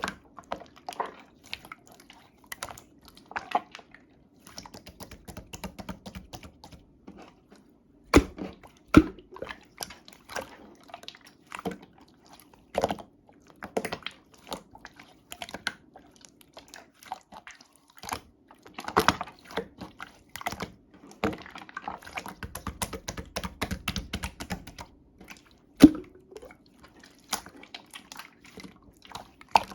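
Clear slime being squeezed, poked and stretched by hand, giving a continuous string of irregular sticky clicks and wet little pops. There are a few louder snaps about 8, 9, 13, 19 and 26 seconds in.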